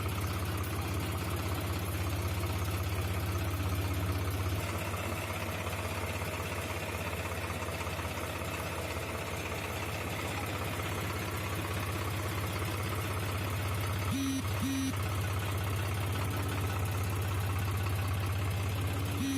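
Tractor engine running steadily, with two short beeps about three-quarters of the way through and a couple more at the end.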